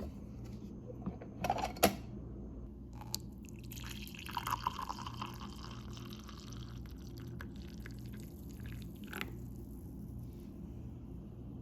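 Coffee being poured, a liquid hiss lasting a couple of seconds, with a few clicks and knocks before it and a low steady hum underneath.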